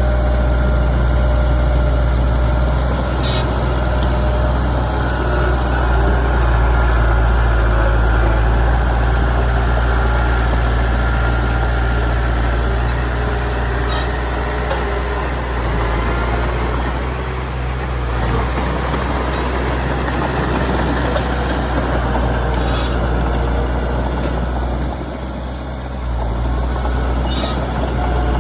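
Komatsu D31PX bulldozer's diesel engine running steadily with a deep hum, easing off briefly near the end. A few faint sharp ticks are heard along the way.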